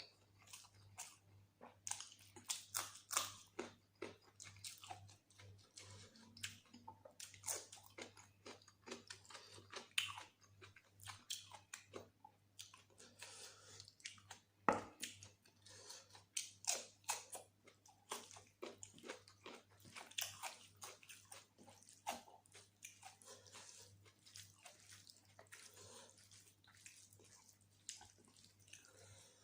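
Close-up sounds of a person eating rice and mutton curry with gravy: wet chewing, lip smacks and soft clicks at an irregular pace, with one sharper click about halfway through.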